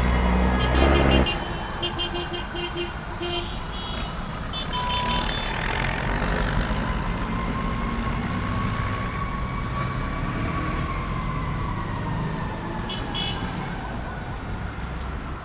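City street traffic: a heavy vehicle's engine rumbles loudly and then fades about a second in, leaving steady passing-car noise with a distant siren slowly rising and falling in the background and a few brief high chirps.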